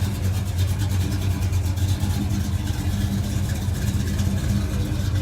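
A car engine idling, a steady low hum.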